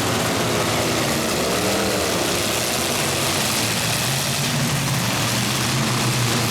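Demolition derby cars' engines running together in a steady din, with one engine revving up and back down about a second and a half in.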